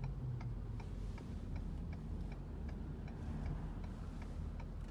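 Car turn-signal indicator clicking steadily inside the cabin, about three clicks a second, over a low steady road and engine rumble while driving.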